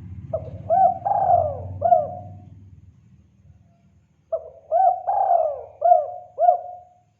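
Spotted dove (tekukur) cooing in a lure call: two phrases of four or five short arched coos, each with one longer falling coo near the middle, about two seconds apart.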